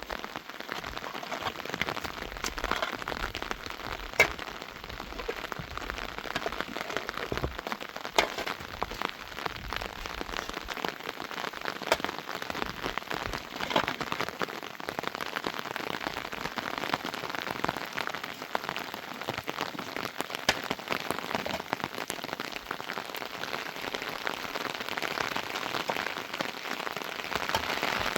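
Rain falling steadily, a dense patter of many sharp drop hits, with one louder hit about four seconds in.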